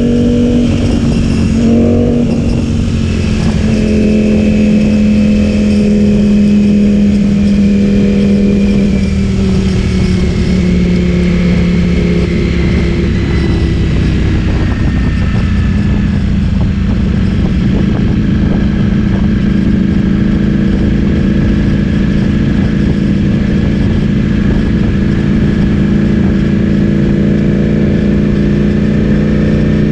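Ducati Streetfighter V4S's V4 engine through an Akrapovic full-system exhaust, running steadily under way. The note breaks briefly about two seconds in, sinks slowly over the next dozen seconds, then holds steady and rises a little near the end.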